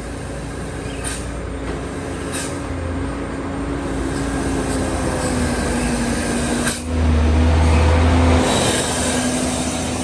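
Heavy diesel truck running close by, its engine note holding a steady whine, with a few sharp clicks and a louder low rumble lasting just over a second about seven seconds in.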